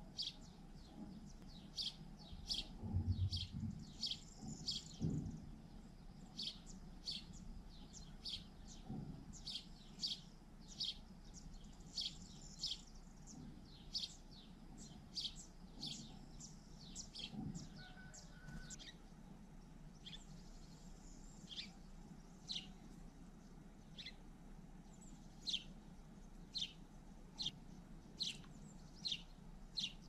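A small bird repeating a short, high, falling chirp about once a second, with a fainter second bird singing now and then. A few soft low thumps come about three to five seconds in.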